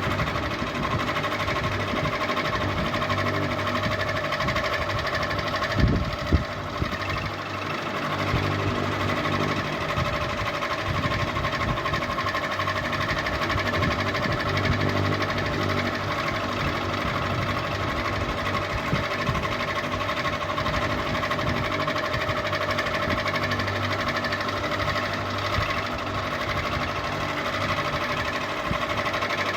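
Electric ceiling fan running steadily, its motor giving a constant hum with a few steady tones over the whir of the blades. Two brief knocks sound about six seconds in.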